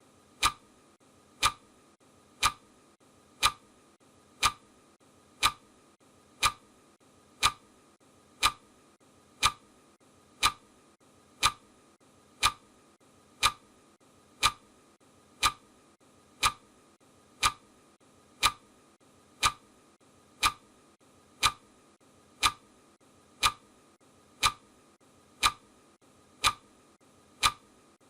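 Clock ticking sound effect of a countdown timer: sharp, even ticks once a second.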